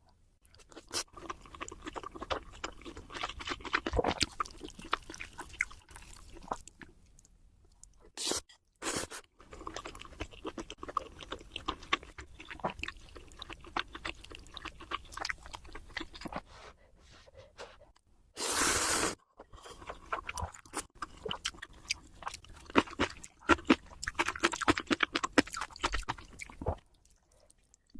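A person chewing crunchy food close to the microphone, with a rapid crackling crunch broken by short pauses. Three brief loud bursts of noise come about a third of the way in and just past halfway.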